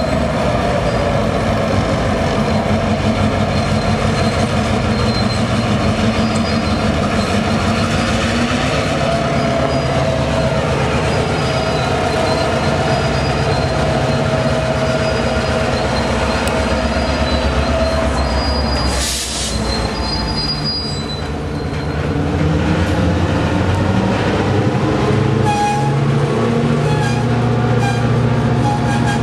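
An EMD GP38-2 locomotive's roots-blown 16-cylinder 645 diesel working under load, with a long, steady, high squeal through the middle. About two-thirds of the way through there is a brief sharp hiss, then the engine note grows stronger.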